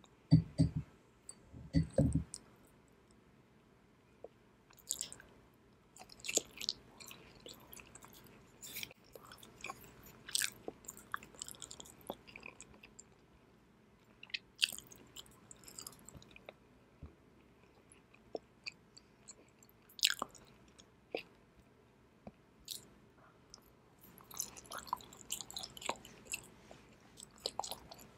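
Close-miked chewing of raw tuna sashimi, with wet mouth clicks and smacks coming in irregular clusters. A few low knocks in the first two seconds.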